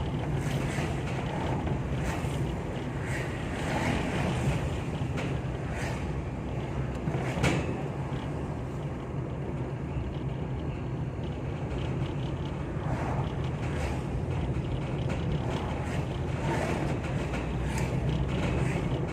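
Ambulance driving with a steady road and engine rumble, while the empty metal funeral bier (keranda) in the back knocks and rattles now and then; the sharpest knock comes about seven and a half seconds in.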